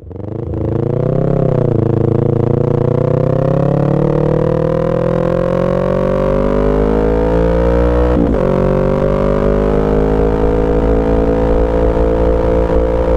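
Yamaha R3 parallel-twin engine running, its pitch rising slowly and evenly for about eight seconds, with a brief break about eight seconds in before it holds nearly steady.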